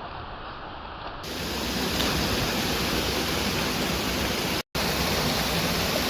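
Waterfall water rushing in a steady, even wash. About a second in it turns louder and fuller, and it cuts out for an instant a little past the middle.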